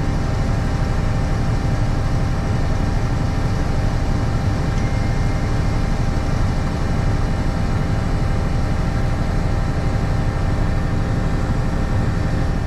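Heavy diesel harvest machinery running steadily, with several constant engine tones under an even mechanical noise.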